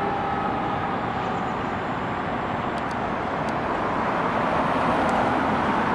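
Steady road traffic noise from passing vehicles, getting a little louder in the second half, with a faint steady tone fading out in the first second or two.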